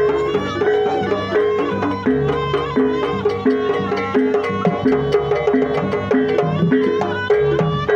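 Traditional jaranan music: a Javanese percussion ensemble playing a steady rhythm, with one mid-pitched note struck over and over and a wavering melody above it.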